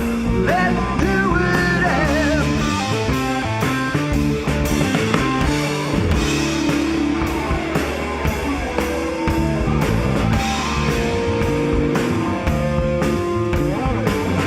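Rock band playing live with electric guitar, bass and drum kit at a steady beat; a bending lead line is heard near the start.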